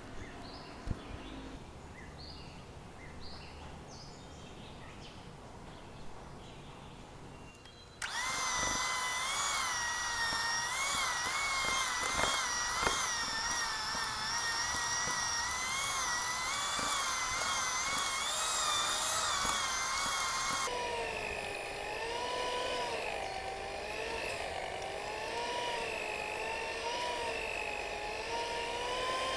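Electric kitchen mixer motor starting suddenly after a quiet stretch and running with a wavering pitch, which drops to a lower running speed about two-thirds of the way through.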